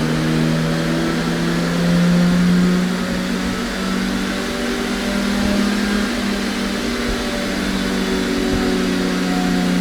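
Car engine running on a chassis dynamometer, its pitch rising a little over the first two seconds and then holding at a steady high speed.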